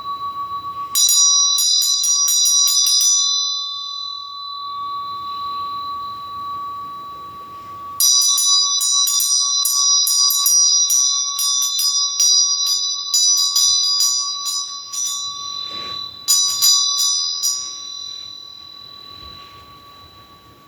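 A small high-pitched bell rung in three bursts of rapid strokes, about a second in, at eight seconds and at sixteen seconds, each ringing on and dying away, over a steady ringing tone underneath.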